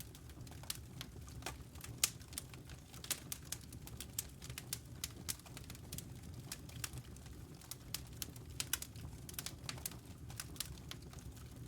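Wood fire crackling in a fireplace: irregular sharp pops and snaps from the burning logs, several a second, over a steady low rumble of the flames.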